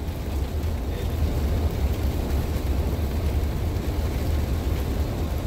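Class A motorhome driving down the highway: a steady low rumble of engine and road noise.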